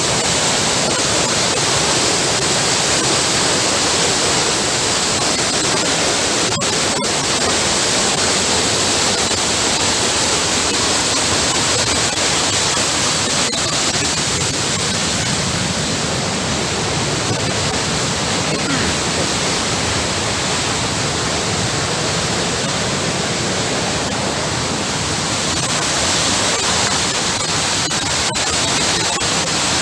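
Rushing river water, a steady loud rush with no breaks.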